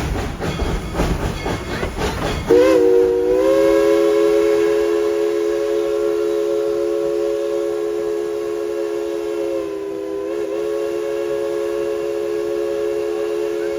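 Baldwin-built steam locomotive running with a rumbling, chugging train noise, then its chime whistle blowing one long three-note blast that starts about two and a half seconds in. The blast wavers briefly near ten seconds and is still sounding at the end.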